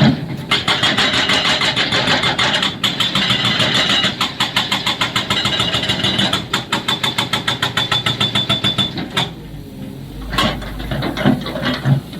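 Excavator-mounted hydraulic breaker hammering rock in a rapid, even rattle of about ten blows a second, over the machine's running engine. The hammering stops for about a second near the end, leaving the engine rumble, then starts again.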